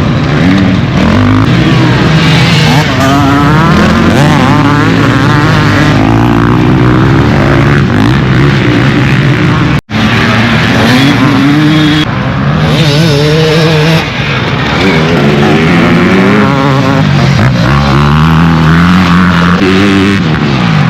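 Off-road dirt bike engines racing, revving up and down through the gears with several pitches overlapping; the sound cuts out for an instant about ten seconds in.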